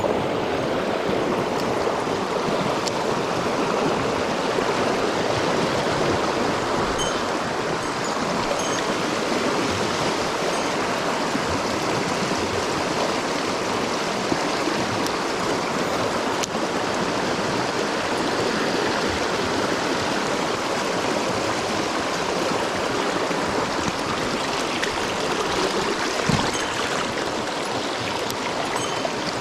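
Mountain stream running full after rain, its water rushing steadily.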